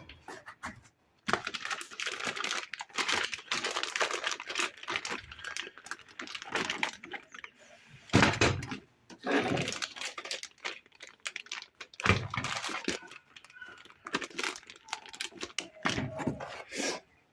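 Hands handling and unpacking tool-kit packaging: irregular rustling and crinkling of plastic with many small clicks, and a couple of louder knocks about halfway through.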